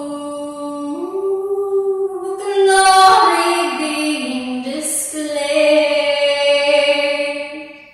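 A woman singing long held notes that step up and down in pitch. It swells louder about three seconds in, then fades out near the end.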